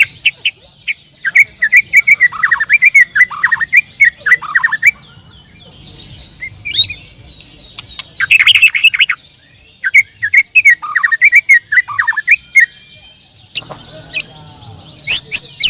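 Canaries singing: loud bursts of fast chirps and rolling trills, several phrases broken by short pauses.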